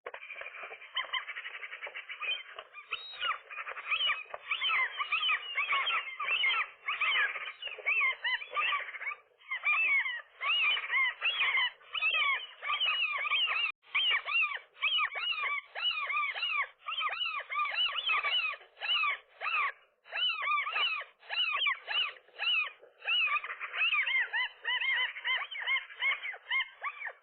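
Gulls calling in a dense run of short, rapid, overlapping cries, with only brief breaks: the alarm and aggression calls of a pair fighting off an intruding gull at their nest.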